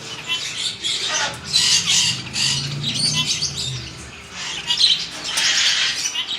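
Parrots squawking and screeching in a shop full of birds, in two bouts of harsh calls, the first starting about a second in and the second near the end.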